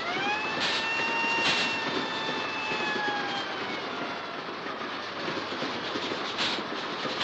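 A steam whistle sounds one long note that rises at the start, holds, then slowly sags in pitch and fades over about four seconds. It rides over the steady rumble of a moving steam train.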